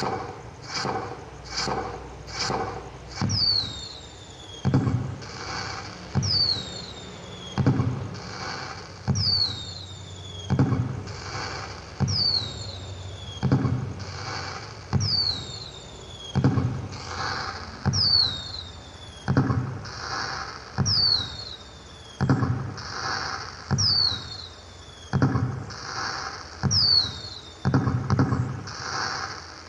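Firecracker sound effect looping from an LED pixel cracker decoration light: a few quick pops, then a repeating cycle of a short falling whistle and a bang about every one and a half seconds.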